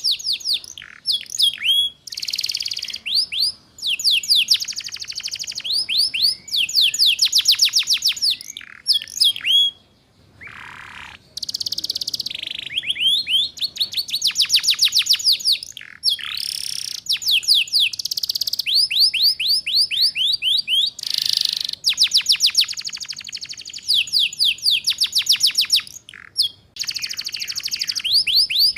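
Domestic canary singing ngeriwik song: fast trills of repeated, sharply falling high notes, in phrases of one to two seconds with short breaks between them, used as a tutor recording for young canaries to copy.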